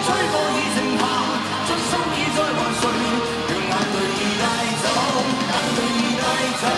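Live pop-rock concert music: a full band playing with a singer's voice over it.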